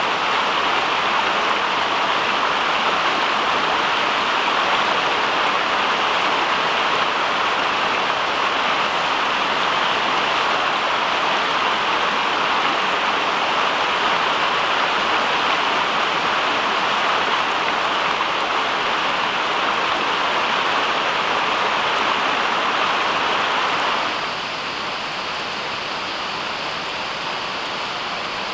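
Steady rushing water noise, even and unbroken, that drops a little in level and thins out about 24 seconds in.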